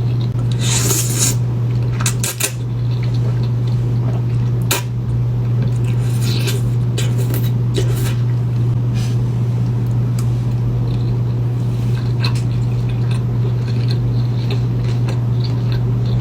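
Close-miked eating: scattered short clicks, crackles and soft squishy sounds of food and utensils or packaging, over a steady low hum that is the loudest thing throughout.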